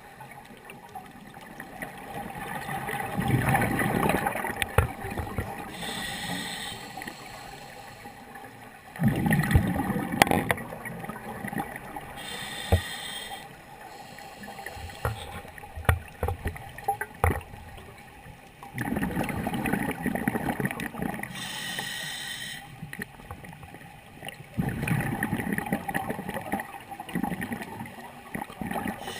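Scuba diver breathing through a regulator underwater: a short hiss on each inhalation, then a longer burst of bubbling on each exhalation, the cycle repeating every several seconds.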